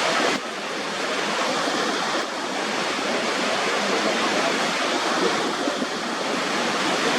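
Waterfall: a steady, dense rush of falling water. Its tone shifts abruptly about half a second in and again a couple of seconds in.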